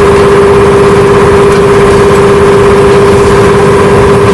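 Steady mechanical drone of a running motor or engine, holding one constant pitch with no change.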